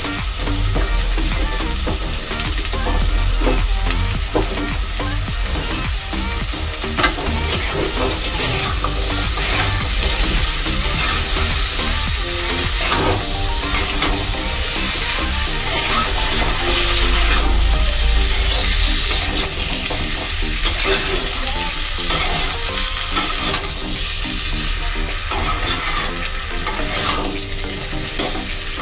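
Potato slices and dried fish frying in oil in a kadai, with a steady sizzle. A spatula stirs and scrapes against the pan in irregular strokes, more often from several seconds in.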